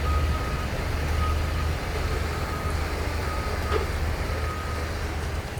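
A heavy vehicle's diesel engine runs with a low steady hum, while a reversing alarm beeps repeatedly with a single high tone about once a second.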